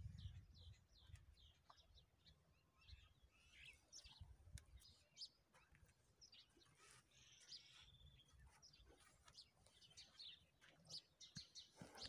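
Faint chirping of small birds, many short quick calls scattered throughout, over a low rumble that is strongest at the very start.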